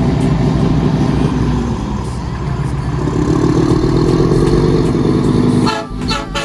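Scania P360 truck's diesel engine running loud and close as the truck drives along, its note rising a little a few seconds in. Near the end comes a short stuttering rattle as the engine sound briefly drops away.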